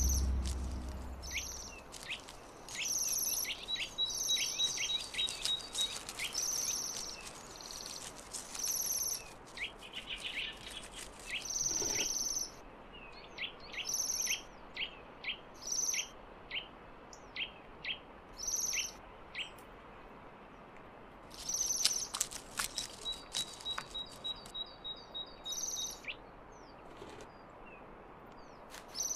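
Birds calling: repeated short high calls, many sharp quick chips, and twice a fast ticking trill lasting a couple of seconds. A low sound fades out over the first second or two.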